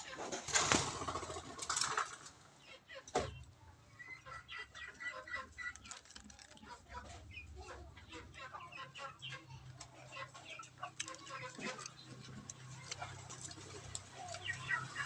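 Red junglefowl rooster crowing, loudest in the first two seconds. It is followed by many short scattered chirps and clicks, with a thin steady high tone about four to six seconds in.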